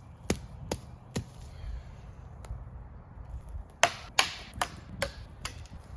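Irregular sharp clicks, knocks and brief rustles of camping gear being unpacked and handled, about eight to ten in all, busiest a little after the middle.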